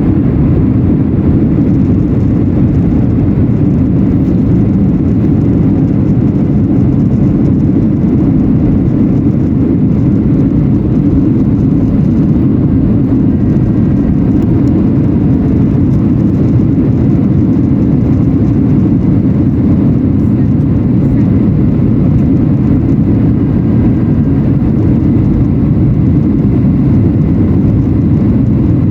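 Steady, loud cabin noise inside a Boeing 737-800 in flight: a low, even rush of airflow and CFM56-7B engines, unchanging throughout.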